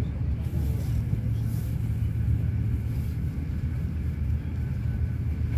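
Steady low rumble of an InterCity passenger train running along the track, heard from inside a passenger car.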